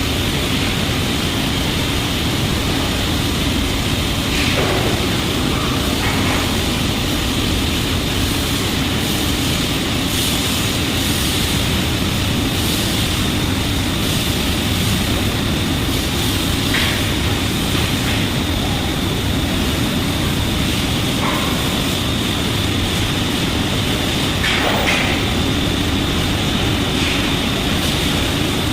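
Steady industrial machinery noise: a constant low rumble with a high whine over it and a few faint brief crackles.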